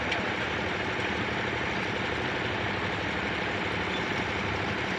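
Tractor diesel engine running steadily, with an even, closely spaced pulse and no change in speed.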